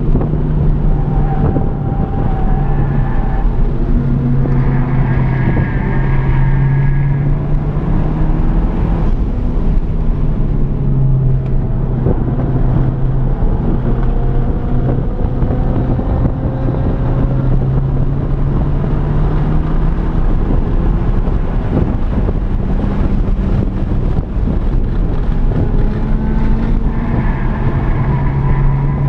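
Honda Civic Type R (FK8)'s turbocharged 2.0-litre four-cylinder engine under hard track driving, heard from inside the cabin. Its pitch rises under acceleration and drops back several times with shifts and lifts for corners, over a steady rush of wind and road noise.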